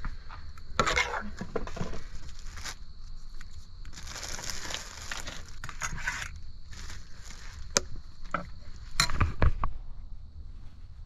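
Crinkling, rustling and scraping handling noises with scattered sharp clicks, the loudest a knock about nine seconds in.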